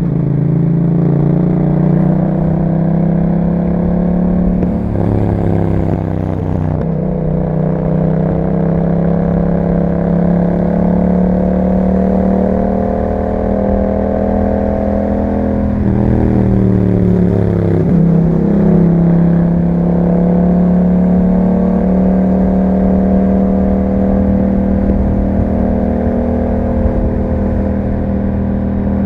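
Yamaha MT-07's parallel-twin engine running through an Akrapovic exhaust while riding under steady throttle. The engine note dips and climbs again twice, about 5 seconds in and again about 16 seconds in.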